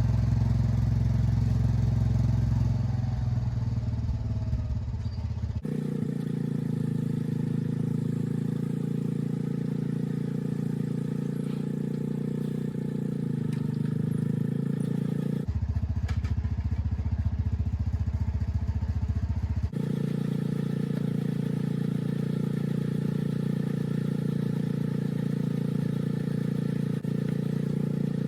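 Small garden tractor engine running steadily, likely pulling the homemade camper. Its pitch and tone change abruptly three times as separate clips follow one another.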